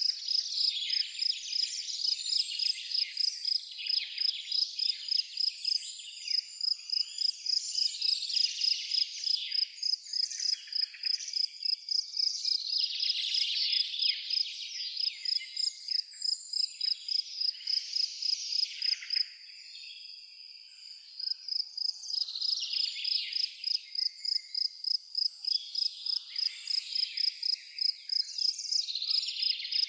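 An insect chirping in a steady high-pitched pulse, about three chirps a second, which stops for a couple of seconds just past the middle and then resumes. Birds call and sing over it.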